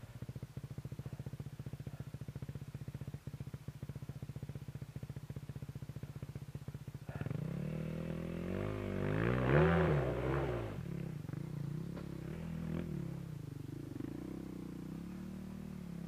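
Enduro dirt bike engine idling with an even chug, then from about seven seconds in revving up and down under load, loudest around ten seconds, before settling into a steadier, faster run.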